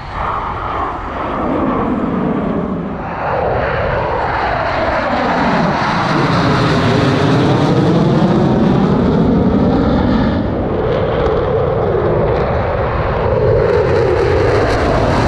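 Loud roar of U.S. Air Force Thunderbirds F-16 jet fighters flying past, growing louder about three seconds in, with a sweeping, swooshing rise and fall in pitch as the jets pass overhead.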